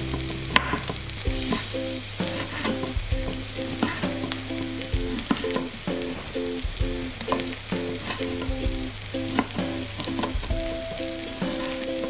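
Ground spice paste sizzling steadily as it fries in oil in a pan, with sharp knife strokes cutting through a tomato onto a plastic cutting board about once a second.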